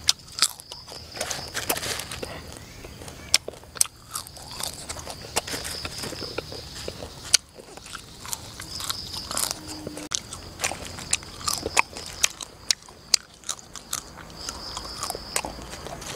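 A person chewing crisp cooked food close to the microphone, with many sharp, irregular crunches and mouth smacks.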